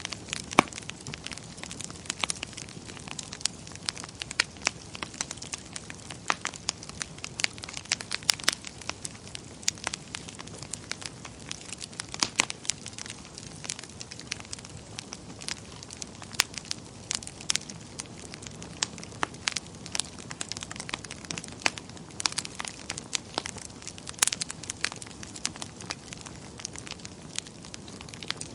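Wood fire in a fireplace burning steadily with a soft hiss and frequent irregular crackles and sharp pops.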